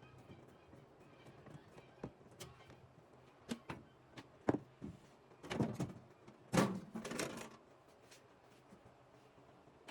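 Knocks and clatters of hands and tools on a microwave oven's sheet-metal outer casing as it is taken off: scattered sharp clicks at first, then two bunched rattling clatters a little past the middle.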